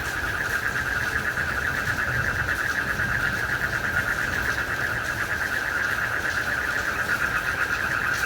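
Night chorus of frogs and crickets: a steady, dense, fast-pulsing trill, over a low rumble.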